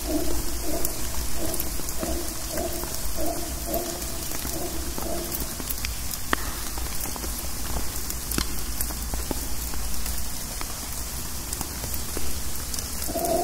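Steady rain dripping through rainforest foliage, with scattered close drops striking sharply. Over the first five seconds or so a mantled howler monkey's pulsing roar repeats about twice a second, then stops.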